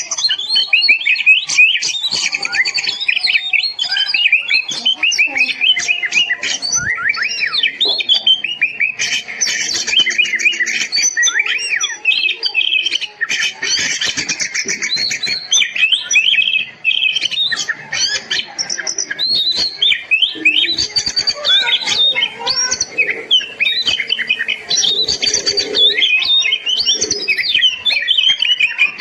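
Oriental magpie-robin (kacer) in full song: a fast, unbroken stream of varied whistles, chirps and trills.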